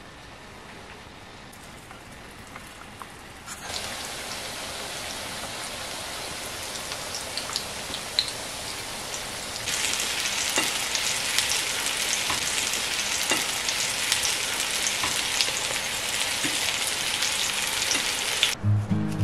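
Dough rolls filled with apple frying in hot oil in a pan: a steady sizzle with crackles that starts a few seconds in and grows louder about halfway through. Near the end it stops and music takes over.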